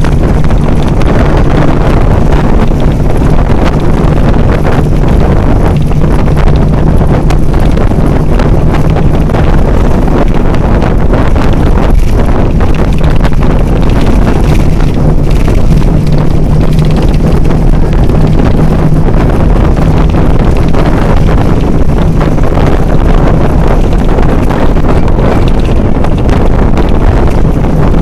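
Heavy wind noise on the microphone over a steady, low engine hum.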